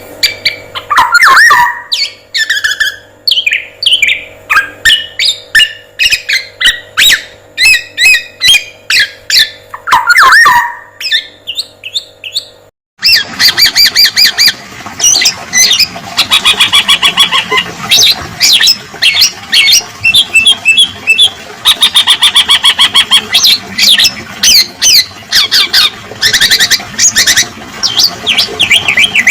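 Recorded songbird calls: black-naped oriole whistles and harsh squawk-like calls mixed with rapid chirps and trills from other birds, played loud. The recording breaks off briefly about 13 seconds in and resumes with a denser, faster run of trills.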